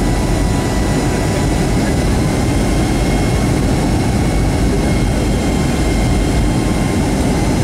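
Loud, steady jet-engine and airflow noise heard inside the cabin of a Boeing 757-200: a deep rumble with faint high steady whine tones over it.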